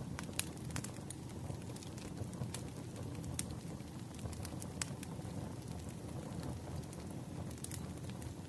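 Firewood burning: a steady low rumble of flames broken by sharp, irregular pops and crackles.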